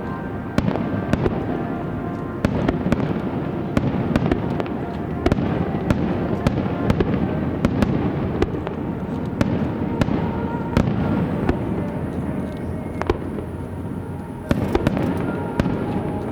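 Aerial fireworks display: a rapid series of sharp shell bursts, bangs every second or less, over a continuous low rumble of further explosions.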